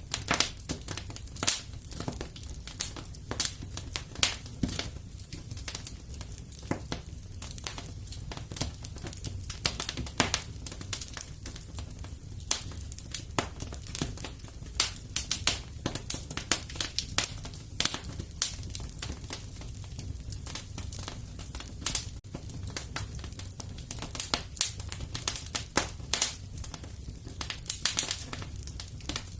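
Wood fire crackling and popping, with frequent irregular sharp snaps over a steady low rumble.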